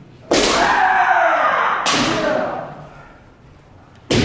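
Bamboo shinai striking kendo armour three times, about a second and a half to two seconds apart. Each sharp crack is met by a drawn-out kiai shout.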